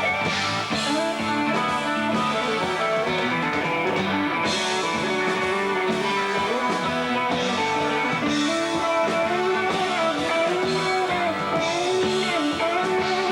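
Live rock music led by electric guitar, with drums keeping a steady beat.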